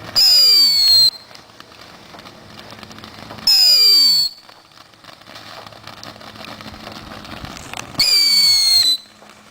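Ground fireworks whistling: three loud shrieks of about a second each, every one falling in pitch and cutting off suddenly, with a fainter fizz of burning in between. The speaker calls them annoyingly loud.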